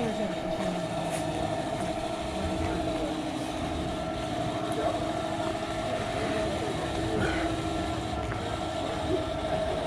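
A steady machine hum with two held pitches, over a low rumble and faint background voices.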